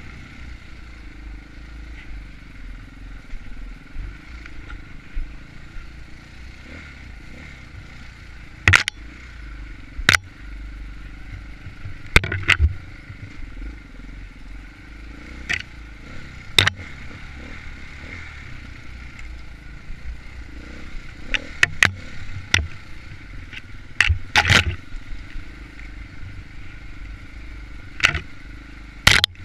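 Dirt bike engine running at a fairly steady pitch while riding an enduro trail, broken by repeated sharp knocks and clatter from the bike over rough ground.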